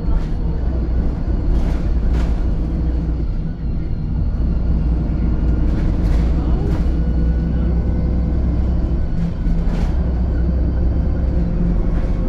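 VDL SB200 Wright Pulsar 2 single-deck bus running under way: a steady low engine drone with a thin whine over it, and several sharp knocks or rattles scattered through.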